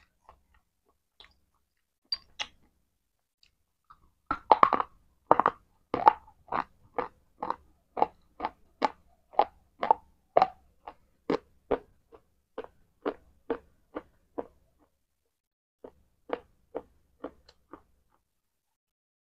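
Close-miked chewing of something hard and brittle: a run of crisp crunches, about two a second, loudest at the first bites about four seconds in. A brief pause follows, then a few more crunches near the end.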